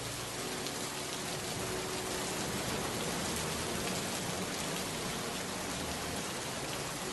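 Steady rain falling, an even hiss of many drops, with faint music running underneath.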